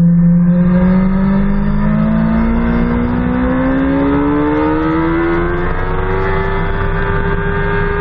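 BMW S 1000 RR's inline-four engine pulling hard under full throttle, its pitch rising steadily without a gear change for about six seconds and then holding level near the end.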